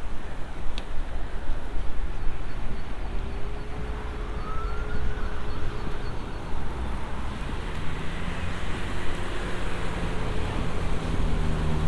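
Steady rumble of road traffic, with faint pitched tones rising and falling over it like a distant siren.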